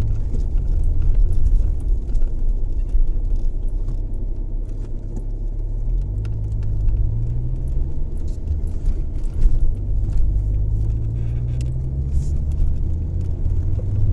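Car engine running while driving, its pitch rising twice as the car speeds up. Scattered light ticks sound over it.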